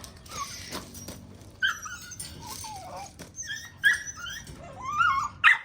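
Rottweiler puppies whining and yipping in a run of short, high-pitched cries that bend up and down in pitch, the loudest coming near the end. They are worked up for a toy they are chasing.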